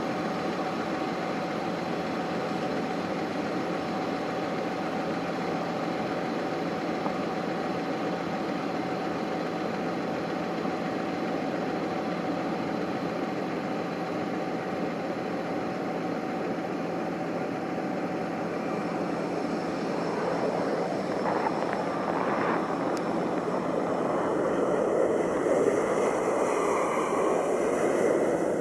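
Jet airliner engines running steadily, growing louder over the last several seconds as the aircraft comes closer.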